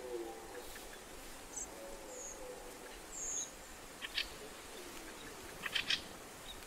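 Faint bird calls over a quiet outdoor background: a few short high chirps, then two quick runs of clicking notes, one near the middle and one near the end.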